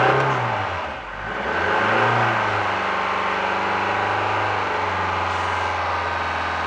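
Car engine at a fast cold idle around 3,000 rpm in −34 °C frost, with no gas pedal pressed. The revs swing up and back down twice in the first two seconds or so, then hold steady.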